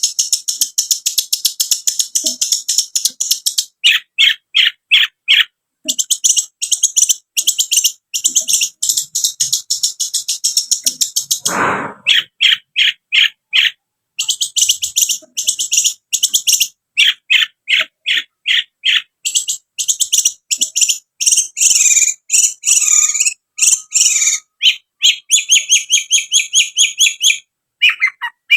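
Long-tailed shrike (cendet) singing: long fast runs of sharp, high chattering notes, broken by short pauses, with a brief harsh sound about twelve seconds in.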